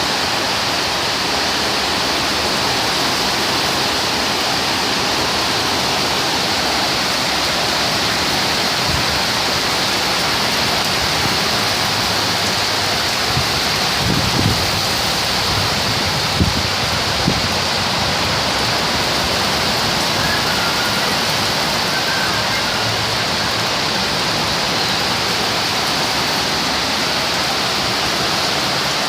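Torrential rain pouring down steadily in a tropical-wave storm. A few brief dull thumps come in the middle.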